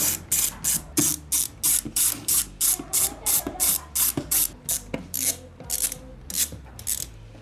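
Ratchet wrench clicking in quick, even back-and-forth strokes, about three a second, as it loosens bolts.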